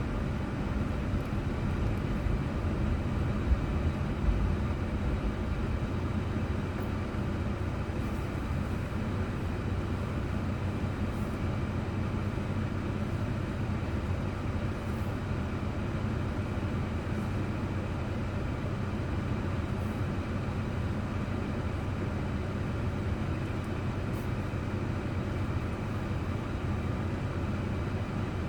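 Car driving, heard from inside: steady engine and tyre noise with a low hum, and a couple of small knocks about four seconds in.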